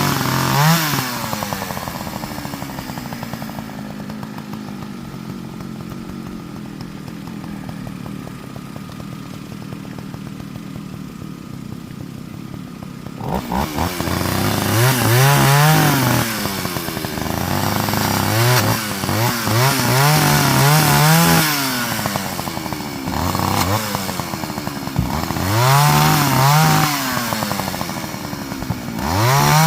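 Partner Farmer two-stroke chainsaw idling steadily, then revved up and down several times from about halfway through while cutting up a small piece of wood.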